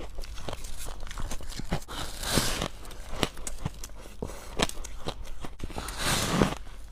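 Close-up crunching and chewing of frost ice with passion fruit syrup: a run of small crackles, with two louder crunches about two and a half seconds in and about six seconds in.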